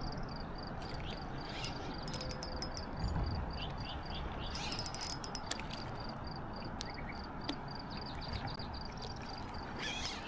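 Insects chirping steadily in a rapid, even pulse, about four chirps a second, over a steady low rushing noise. Scattered clicks come between about one and five seconds in, with a soft thump about three seconds in.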